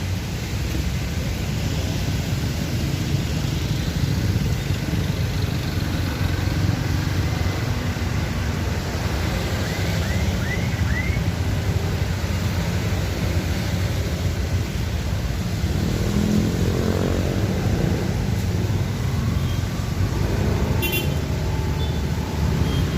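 Steady low rumble of vehicle engines idling and moving in traffic, with one engine note rising as it accelerates about sixteen seconds in and a few short high chirps around ten seconds.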